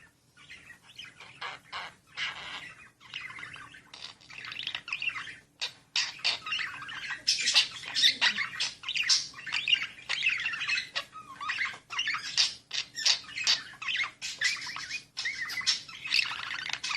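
Pet bird chattering: a continuous stream of quick chirps, warbles and squawks, sparser at first and busier and louder from about six seconds in.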